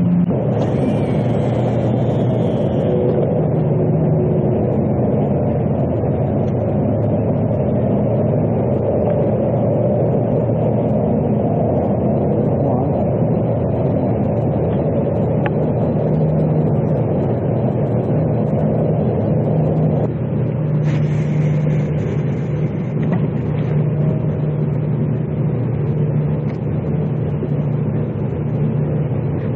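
Boat's outboard motor running steadily under way, with a change in tone about twenty seconds in.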